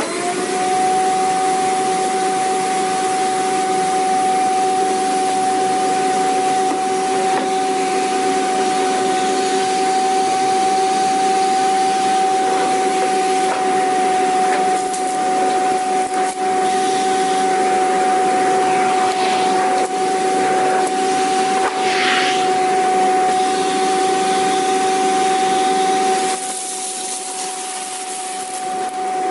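Vacuum cleaner switched on and running steadily: a loud rushing of air with a constant high motor whine. A few seconds before the end the sound drops somewhat quieter and duller.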